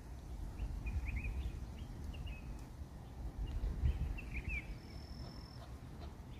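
Birds chirping: scattered short, quick chirps, with a thin high whistle held for under a second about five seconds in, over a low rumble.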